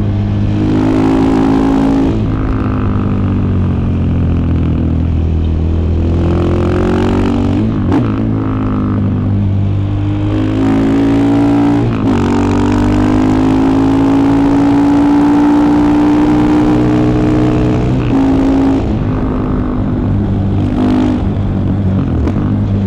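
KTM 690 Enduro R's single-cylinder engine pulling the bike along under way. Its pitch climbs and then drops at each of several gear changes, and it holds a long, slowly rising note in the middle.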